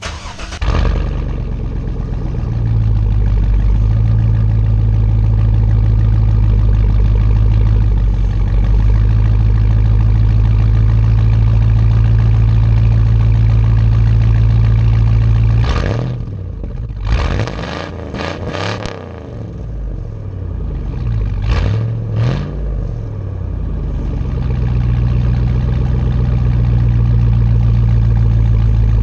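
2000 Chevy Suburban's 5.3L V8 running through a straight-piped exhaust with the muffler deleted: a steady idle, then a quick run of throttle blips a little past halfway, two more short blips a few seconds later, and back to idle.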